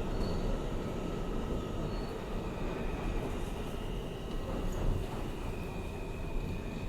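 Inside an R160A-2 subway car in motion: a steady rumble of wheels on track, with a thin high whine from the car's propulsion that sets in about two and a half seconds in and slowly falls in pitch as the train slows for a station.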